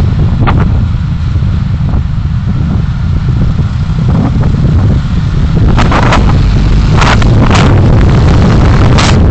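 Road vehicle driving, picked up by a dashcam microphone as a loud, steady low rumble with wind buffeting. Several sharp crackles or knocks come in the second half.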